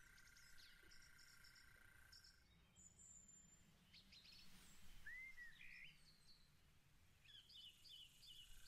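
Near silence with faint birdsong: scattered chirps and short whistled calls, and a thin steady trill in the first couple of seconds.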